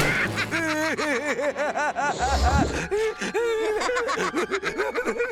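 Cartoon character laughing in quick, even 'ha-ha-ha' syllables, in two long runs with a short break between them.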